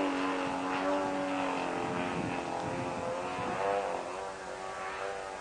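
Quadra Q65 two-stroke gasoline engine of a radio-controlled Fly-Baby biplane in flight, a steady propeller drone whose pitch wavers up and down as the plane moves about, growing a little fainter toward the end.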